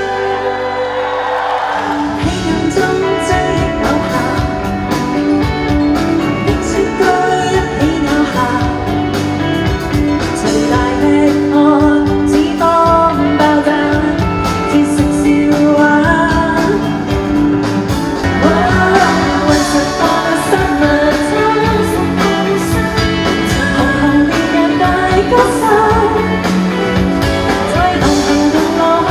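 Live pop-rock band music with singing. The full band with drums comes in about two seconds in, after a softer opening, and keeps a steady beat.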